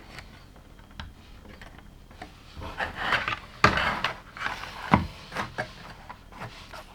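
Loose LEGO plastic pieces being handled and rummaged through. A rattling, rustling stretch comes a few seconds in, with several sharp plastic clicks; the loudest click is about halfway through.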